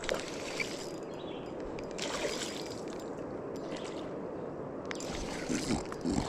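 Steady rush of flowing river water, with a few soft low bumps near the end.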